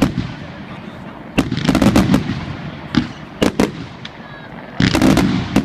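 Fireworks display: aerial shells and cakes bursting in clusters of rapid, sharp bangs with a low rumble, one volley about a second in, a few single booms in the middle, and another rapid volley near the end.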